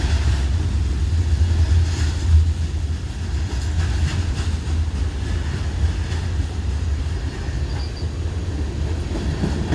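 Freight train cars rolling past: a steady low rumble with a few faint clicks from the wheels.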